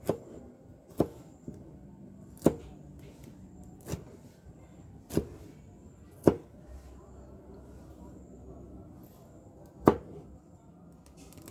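A knife chopping on a cutting board: about seven single, sharp chops at uneven spacing, with a longer pause before the last one near the end.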